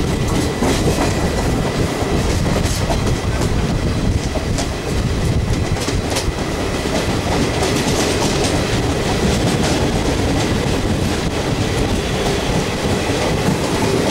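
Train wheels rumbling and clattering over rail joints and points as the train rolls in, heard through an open coach door, with a freight train's hopper wagons passing close on the next track. A steady loud din with irregular sharp clicks.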